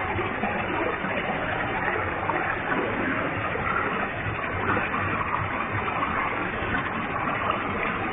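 Waterfall with a heavy flow of falling water, splashing in a steady, unbroken rush.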